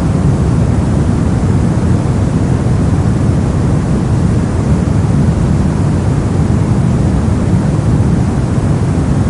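Steady brown noise: a loud, even rumbling hiss, strongest in the lows and falling away toward the highs, unchanging throughout.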